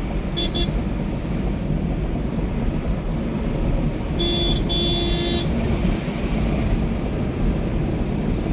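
A horn sounding: a quick double toot just after the start, then a longer two-part honk about four seconds in, over a steady low rumble of engine and wind noise.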